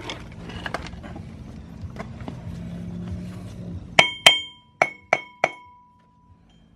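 Hammer striking metal five times in quick succession, each blow ringing with a clear metallic tone, after a few softer knocks of tools being handled.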